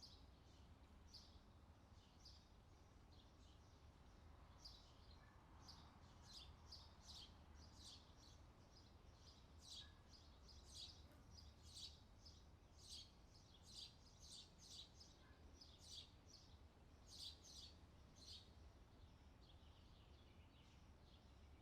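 Faint birdsong: many short, high chirps from several birds, coming thicker through the middle and later part, over a low steady hum.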